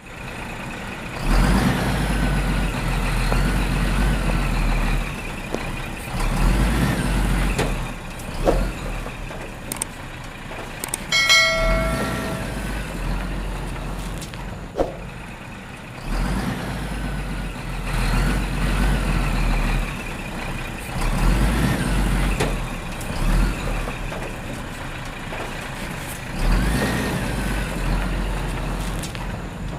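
Heavy vehicle engine sounds, swelling and easing repeatedly, with clicks and a single horn honk about eleven seconds in.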